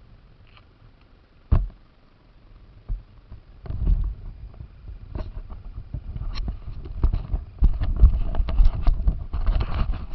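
An RC car bouncing over rough ground, heard through its onboard camera: a sharp knock about a second and a half in, then from about three and a half seconds in a continuous low rumble full of knocks and rattles from the chassis.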